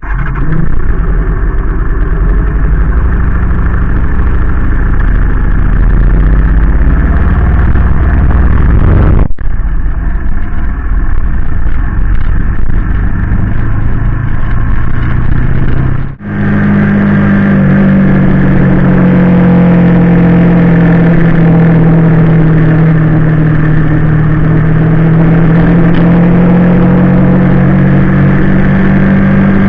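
Honda VT250 V-twin motorcycle engine running. The sound breaks off abruptly twice, about nine and about sixteen seconds in. After the second break it settles into a steady hum at constant revs.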